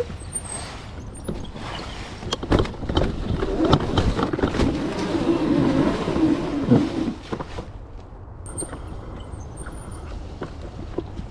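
Modified Razor MX650 electric dirt bike ridden over rough trail: tyre noise and rattling with many knocks over bumps, with no engine note. It grows louder for several seconds in the middle, then eases off.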